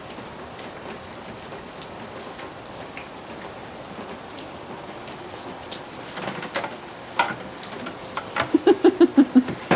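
Steady rain falling, an even hiss. From about halfway through, scattered short knocks and taps sound over it, with a quick run of short pulses near the end.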